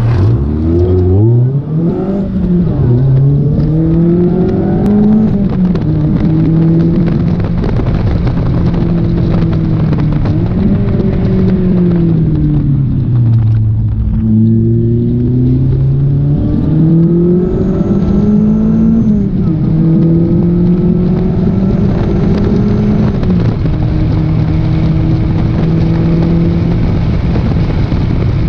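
Lotus Elise's four-cylinder engine running hard on track, heard from inside the open cockpit: the revs climb and drop through several quick gear changes in the first few seconds, then rise and fall with the corners, sinking lowest about halfway through before pulling up again, all over a steady rush of road and wind noise.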